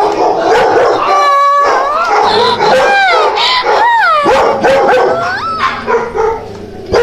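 Several dogs barking at once, mixed with high yelps and long calls that slide up and down in pitch.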